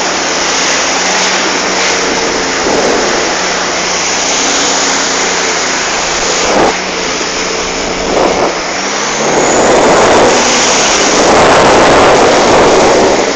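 Jet ski engine running with a steady drone under a loud rush of wind and water spray. Near the end the engine tone fades under the rushing, which surges louder.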